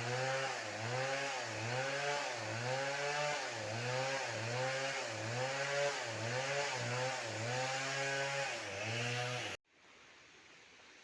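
Two-stroke chainsaw cutting wood, its engine pitch dipping and recovering in a steady rhythm about every two-thirds of a second. The sound cuts off abruptly near the end, leaving only faint background noise.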